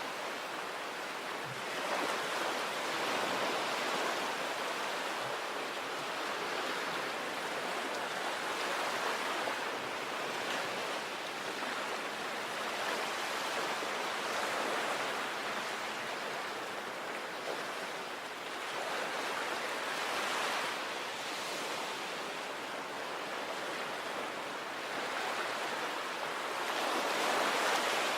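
Sea waves breaking and washing on a shore, a steady rush of surf that swells and eases every few seconds.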